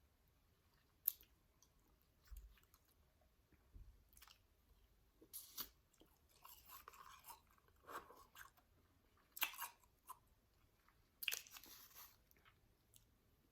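Close-miked chewing of powdery shaved ice: soft crunches come every second or two, some in short clusters of crackling bites.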